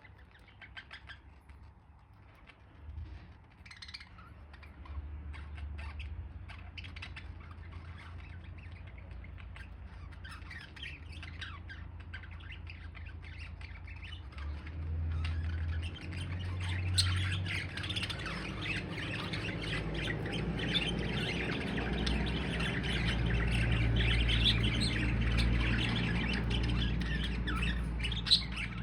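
A flock of budgerigars chirping and squawking, sparse at first and building to a dense, continuous chatter from about halfway through, with a low rumble underneath.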